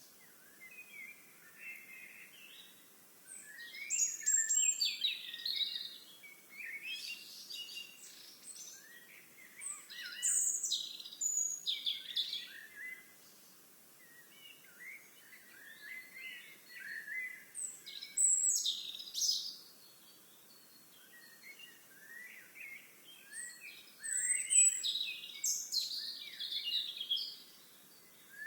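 Songbirds singing, several phrases of chirps and trills in bursts a few seconds apart with short quiet gaps between.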